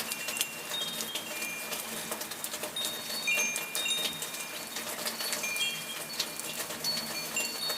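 Steady rain with a thick scatter of sharp drop clicks, and short high ringing notes at several pitches coming and going among them.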